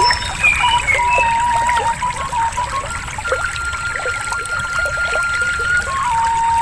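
Trickling water running steadily, with short high chirps in the first second or so. A steady high tone runs underneath, stepping up in pitch about three seconds in and back down near the end.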